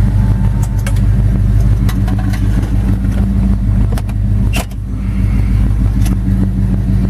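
Oldsmobile 455 cubic-inch V8 running steadily at a low, even speed, with a few sharp clicks scattered through.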